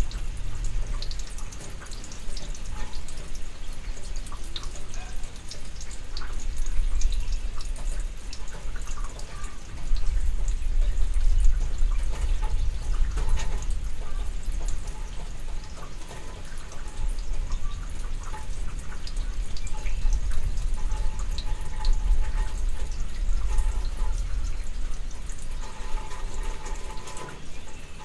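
Rain falling steadily during a summer thunderstorm, with many close drips ticking. A deep low rumble swells about ten seconds in and again near twenty seconds.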